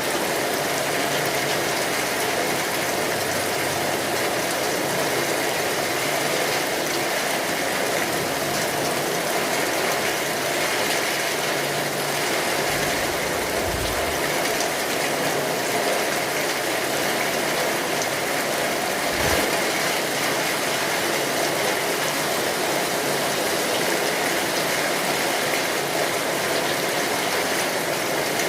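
Steady rainfall, a dense, even patter. Two brief low thuds come about halfway and two-thirds of the way through.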